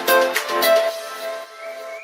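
Music on strummed plucked string instruments: a few strums in the first second, then held chords that fade away.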